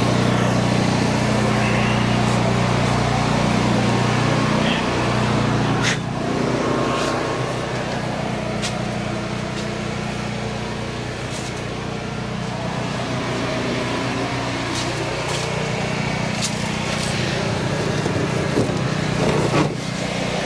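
Honda EM6500SX portable generator engine running steadily, with a few sharp knocks about six seconds in and near the end.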